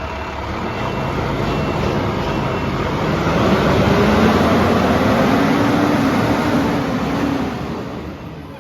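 Diesel truck engine running: it builds in pitch and loudness over the first few seconds, holds, then eases off and fades near the end.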